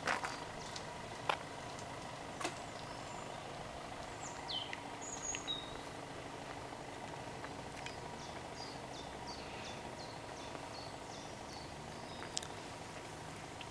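Small birds calling: a few chirps about four to five seconds in, then a run of short, evenly repeated chirps, about two a second, over a steady low hum. A few sharp clicks near the start.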